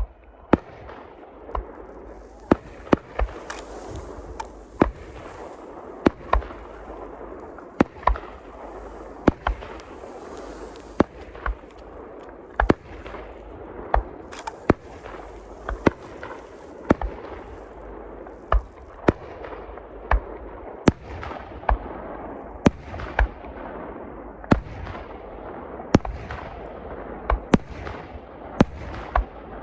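Aerial fireworks going off in a steady barrage: sharp bangs about one to two a second over continuous crackling and hissing from the bursting shells.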